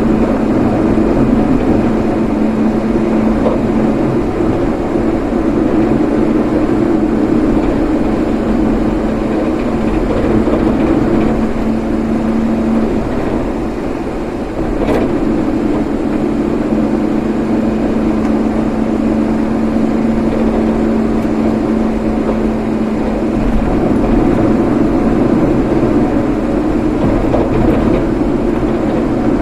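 A vehicle's engine and road noise while driving: a steady hum that eases briefly about halfway through, with a single click just after.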